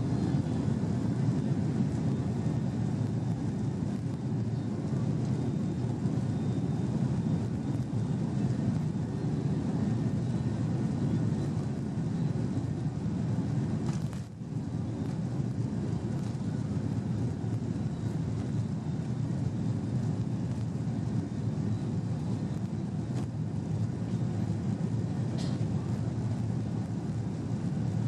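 Steady rumble of a Boeing 737-800's engines and airframe heard inside the passenger cabin, with a brief dip in level and a click about halfway through.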